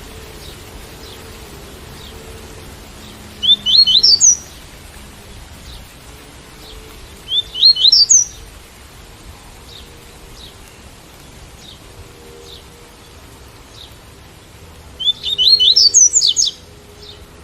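Double-collared seedeater (coleiro) singing its tui-tui song: three short phrases, each a quick run of notes climbing in pitch, the last one longer. Beneath it runs a steady hiss of rain.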